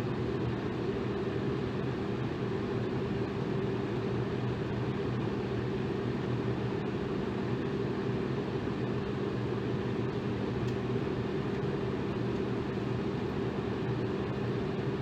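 Electric fan running steadily: an even rush of moving air with a low motor hum underneath.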